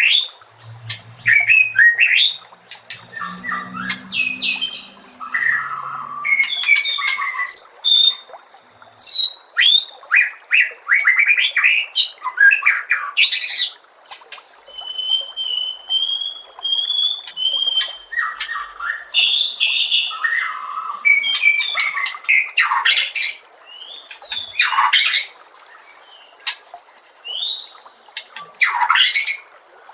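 White-rumped shama (murai batu) singing a long, varied song of quick whistled sweeps and trills, with a run of short repeated notes in the middle and harsh downward-sweeping notes near the end.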